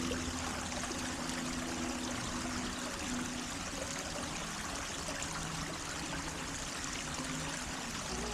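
Steady running water, a stream of water flowing and trickling without a break.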